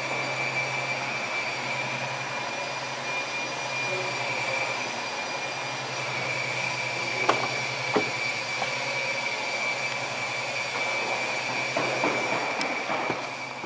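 Nissan Elgrand minivan engine idling steadily, with a steady high-pitched whine over the low engine note. Two short clicks come about seven and eight seconds in.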